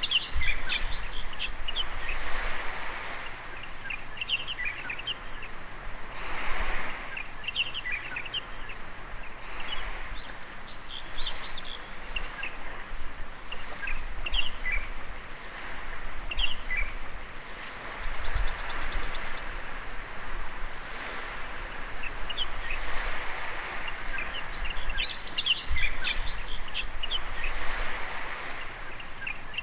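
Small waves washing onto a beach, swelling and fading every few seconds, while birds chirp through it; near the middle there is a quick trill of repeated notes.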